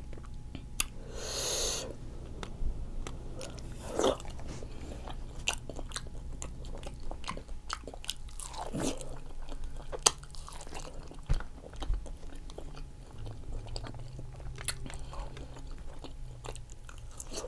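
Close-miked chewing and biting of octopus, with irregular wet mouth clicks and smacks.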